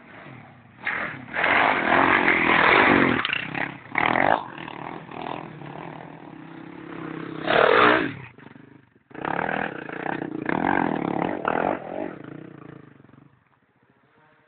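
Enduro motorcycle engine revving hard in several bursts of throttle, its pitch rising and falling. It stops about a second before the end.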